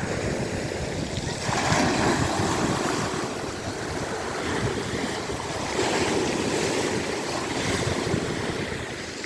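Black Sea surf rushing and washing in waves that swell about two seconds in and again near six seconds, with wind rumbling on the microphone.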